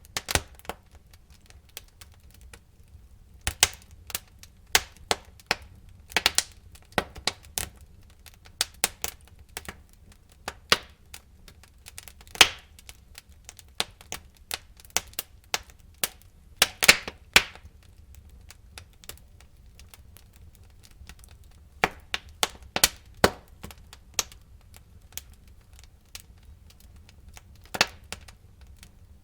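Wood fire burning in a fireplace, the logs crackling and popping in irregular sharp snaps over a low rumble of the flames, with louder clusters of pops every few seconds.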